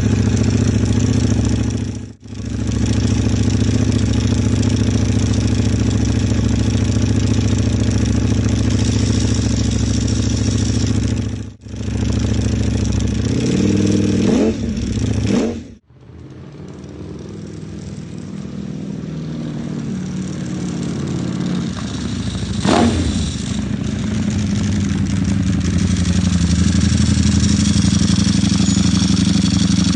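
Ducati Panigale V4 SP's V4 engine through an Akrapovič full exhaust, running loud and steady, with quick throttle blips about halfway through and again later that send the pitch up and back down. The sound cuts out briefly three times where clips are joined.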